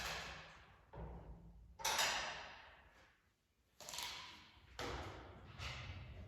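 A series of heavy thuds or knocks at uneven intervals, roughly one a second with a short pause near the middle, each fading out slowly with an echo.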